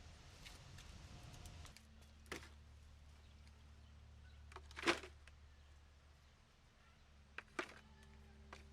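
A few scattered sharp knocks over a low steady hum, the loudest about five seconds in and two close together near the end.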